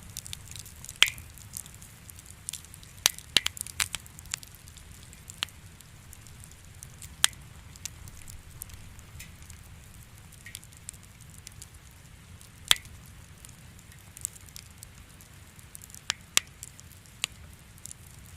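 Wood fire in a fireplace crackling: irregular sharp pops and snaps, a couple of them louder, over a steady low rumble.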